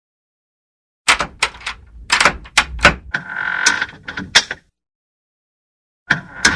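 A door being worked: a run of sharp clicks and knocks with a short hinge creak in the middle, then, after a pause, a second shorter run of clicks and a creak near the end.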